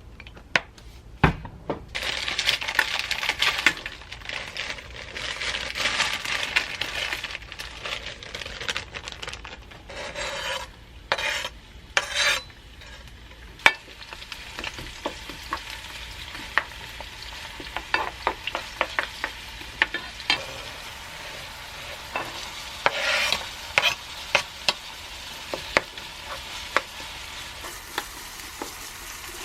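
Food sizzling in a frying pan as it is stirred, with many sharp clicks of a utensil against the pan. The sizzling is loudest in the first several seconds and settles lower after about ten seconds.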